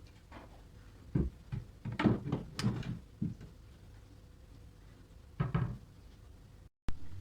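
Kitchen cupboard doors and their contents being handled, making a string of short knocks and clacks: a few about a second in, a quick cluster from two to three seconds, and another pair near five and a half seconds.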